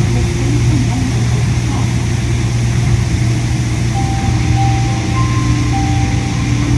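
Steady loud hum inside a Yui Rail monorail car, from the air conditioning and the running train. From about four seconds in, a few short steady high tones sound over it.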